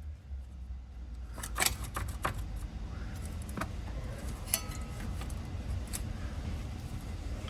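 A handful of sharp metallic clinks and clatters of hand tools and parts being handled, most of them between about one and a half and six seconds in, over a low steady hum.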